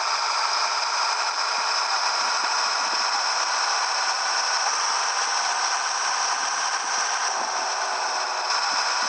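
Steady rattling and road noise inside a moving Scania 113H truck's cab, with small scattered knocks.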